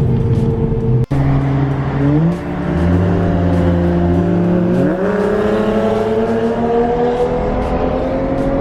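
Straight-piped BMW 335i's N55 turbocharged inline-six accelerating, its exhaust note climbing steadily in pitch through the second half. There is a brief dropout about a second in.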